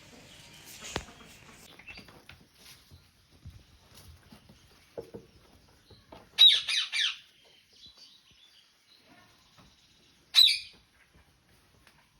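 Pet green parrot squawking: a quick run of harsh calls about six seconds in and one more short squawk near the end, with faint clicks and rustles between.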